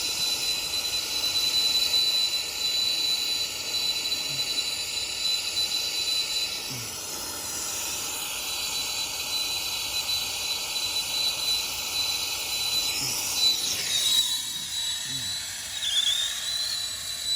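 Brazing torch flame hissing steadily with a thin whistle that wavers near the end, heating a refrigerant leak on an air-conditioning evaporator coil.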